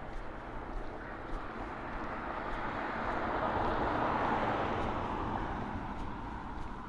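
A vehicle passing by: a rushing noise that swells to its loudest about four seconds in and then fades away.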